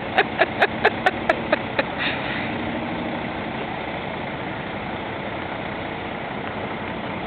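A vehicle engine idling steadily. For about the first two seconds a rapid, even series of sharp clicks, about four a second, runs over it and then stops.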